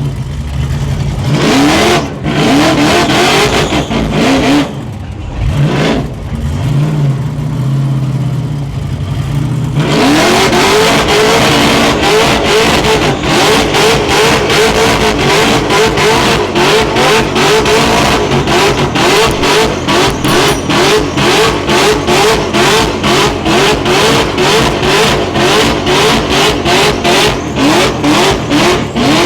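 Holden HG wagon burnout car's engine revving hard. From about ten seconds in it runs at high revs, surging up and dropping back about twice a second.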